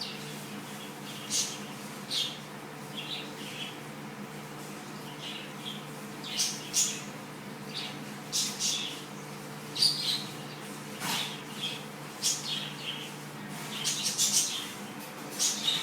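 Cockatiel making short high chirps, scattered irregularly at about one or two a second, over a steady low hum.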